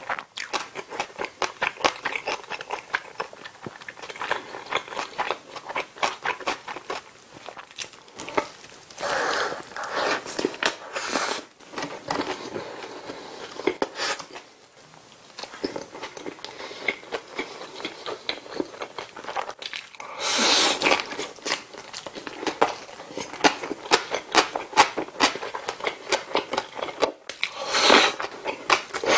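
Close-miked chewing of a McDonald's bulgogi burger: a steady run of small wet mouth clicks with a few louder bursts of biting and eating, the loudest about two-thirds of the way through. Near the end comes a slurp of a strand of red, spicy shredded side dish.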